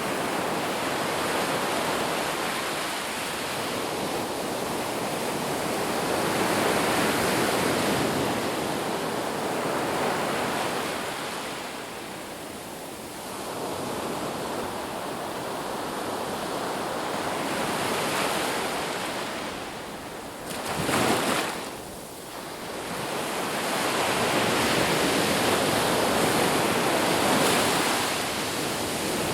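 Sea waves washing on the shore, a steady rush of surf that swells and ebbs every few seconds, with a brief louder surge about 21 seconds in.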